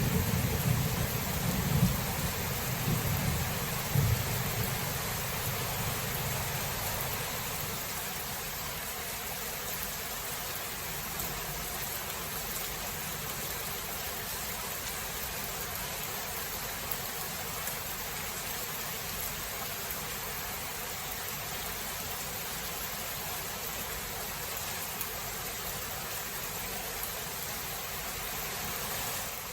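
Steady rain hiss with thunder rumbling and fading away over the first several seconds, with two sharper peaks in the rumble about two and four seconds in; then rain alone.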